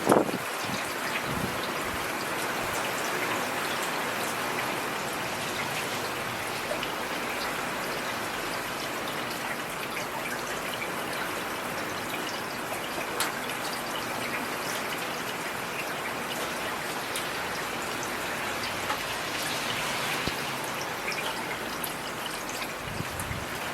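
Heavy rain falling steadily: a dense, even hiss sprinkled with the faint ticks of single drops.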